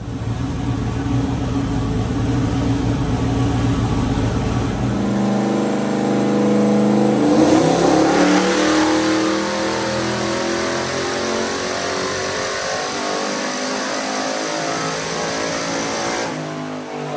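Turbocharged 5.3 L LS V8 running on a chassis dyno: a deep rumble for the first few seconds, then the revs climb under load. A loud rushing noise joins about halfway through and cuts off sharply near the end.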